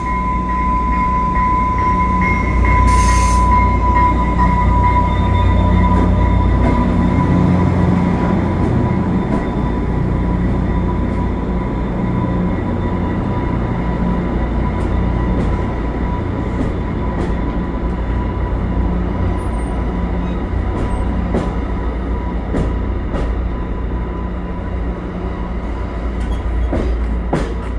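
Commuter train moving slowly: a steady low rumble with a thin high-pitched wheel squeal that fades over the first half, a brief hiss about three seconds in, and scattered clicks later.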